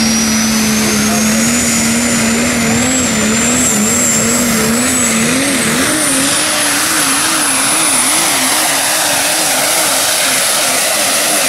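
Super stock diesel pulling truck under full throttle, engine running hard with a high turbo whistle that climbs steadily in pitch. The engine note wavers up and down more and more strongly toward the end.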